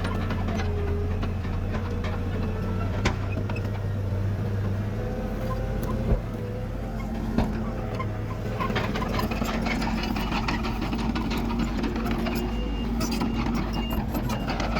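Diesel engine of a Komatsu D31PX crawler dozer running steadily, its low note changing about a third of the way in. There are a few sharp knocks in the first half and a dense run of metallic clanks and clicks in the second half.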